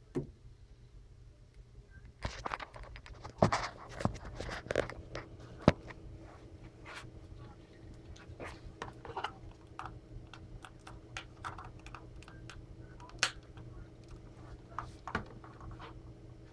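Small toy accessories being handled: scattered light clicks and rustling, busiest a couple of seconds in and thinning out after, over a steady low hum.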